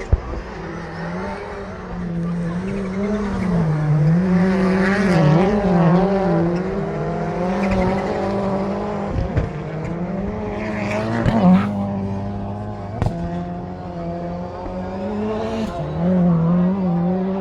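Rallycross Supercar race cars running flat out, engine revs rising and falling continuously as they accelerate and brake through the course. A few sharp cracks sound in between.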